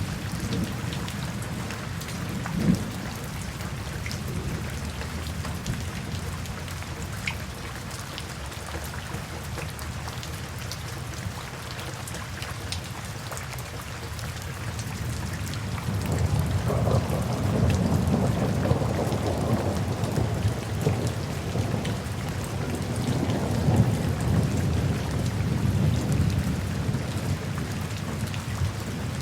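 Steady rain falling, with individual drops pattering. About halfway through, a long low rumble of thunder sets in and rolls on to near the end.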